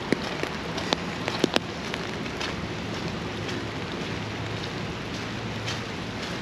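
Steady rain hiss with sharp ticks of individual drops, several of them in the first second and a half.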